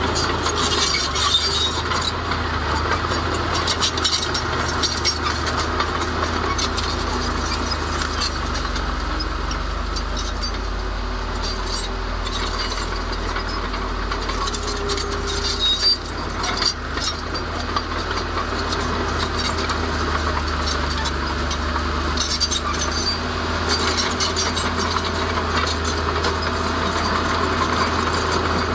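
Komatsu D31A crawler bulldozer's diesel engine running steadily under load, with metallic clinking and scraping from the tracks and blade working stone fill.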